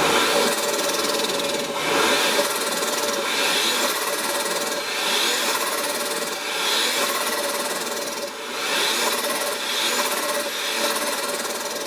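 Supercharged Toyota 2JZ-GE engine revved in a series of throttle blips, about one every one and a half to two seconds, a high whine rising and falling with each.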